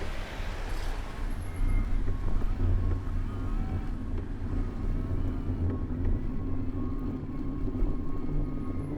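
City road traffic heard from a moving bicycle: a steady low rumble of engines and tyres, with a hiss in the first second that fades away, like a vehicle passing close.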